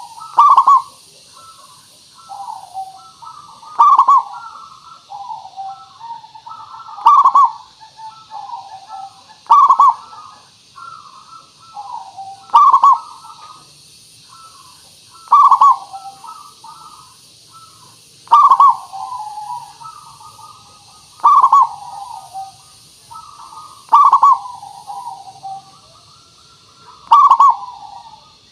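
Zebra dove (perkutut) cooing in repeated phrases: soft, rolling coos punctuated by a loud, clear note about every three seconds.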